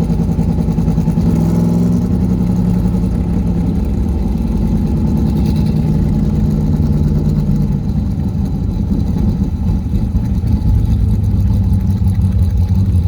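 Carbureted V8 of a C3 Corvette running cold on its choke while it warms up. The engine note is steady and low, and its pitch steps up and down a few times.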